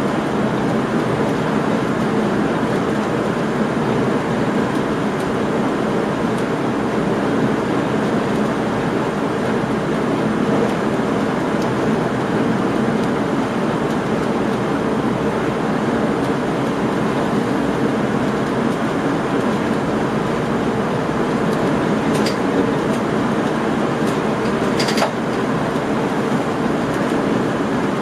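Steady running noise of a train heard from inside the driver's cab as it travels along the line, with two short sharp clicks near the end.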